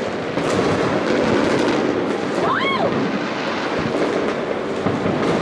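Fireworks going off in a continuous barrage of bangs and crackles. About halfway through, a short whistle rises and then falls in pitch.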